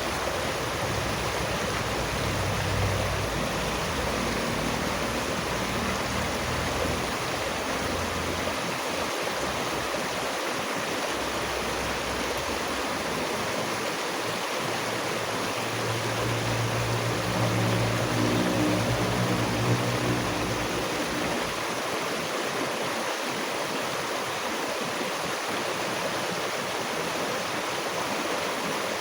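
Running water, a stream or small waterfall, giving a steady even rush. A faint low hum comes in under it briefly near the start and again just past the middle.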